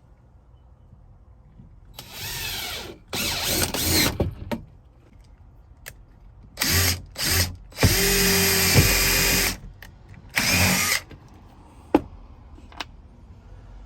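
Power drill running in about six short bursts, the longest about a second and a half, driving screws to fasten a wooden 1x framing strip. Two sharp clicks near the end.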